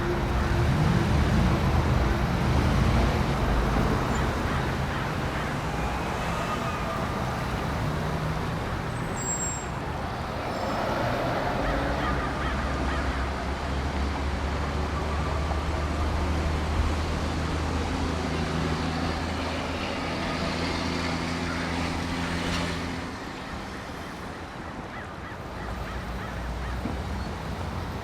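City road-traffic noise, a steady wash of passing vehicles. A low steady hum joins about twelve seconds in and drops away a few seconds before the end.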